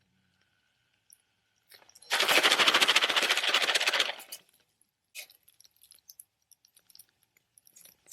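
Jiffy Pop popcorn popping: a dense rush of rapid pops starting about two seconds in and lasting about two seconds, then scattered single pops.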